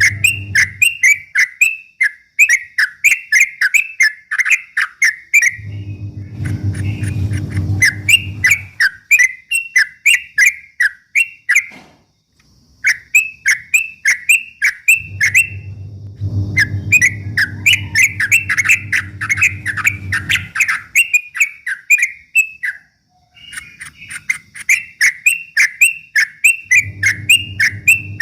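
Yellow-vented bulbul (trucuk) chattering in fast, unbroken runs of short chirpy notes, the rapid 'ropel' song used to provoke rival birds. The runs break off briefly twice, and a low hum comes and goes underneath.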